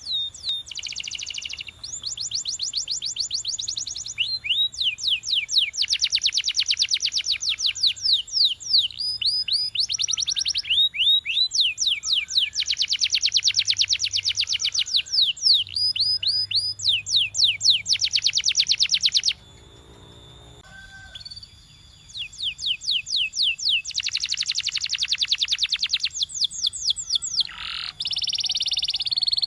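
Canary singing: rapid trills of short repeated rising notes, phrase after phrase, with a pause of about two seconds past the middle and a brief held note near the end.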